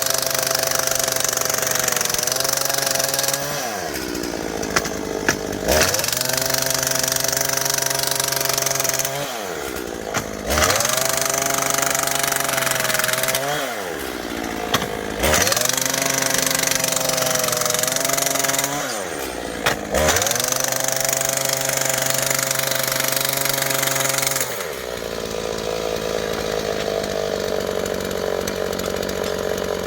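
Small petrol engine of a handheld rail track power tool, revving up to full speed and holding for a few seconds, then dropping back, five times in a row. Near the end it settles into a steadier, lower run.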